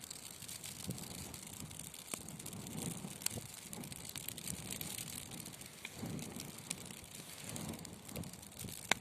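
Wood fire burning in a fireplace: a steady hiss and low, swelling flame rumble with scattered sharp crackles and pops, the loudest pop just before the end.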